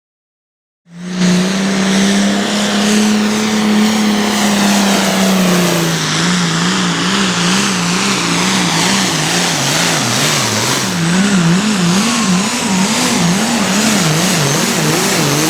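Pulling tractor engine running hard at full throttle under load, its pitch holding steady for the first few seconds and then wavering rapidly up and down. It starts abruptly about a second in and cuts off sharply at the end.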